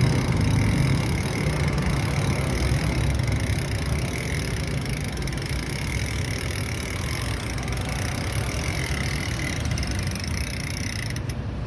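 Steady low hum of a motor vehicle engine idling, running evenly throughout.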